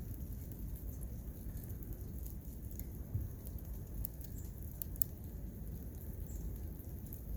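Wood fire crackling in a Solo Stove: scattered sharp pops and ticks at irregular intervals, the strongest about five seconds in, over a steady low rumble.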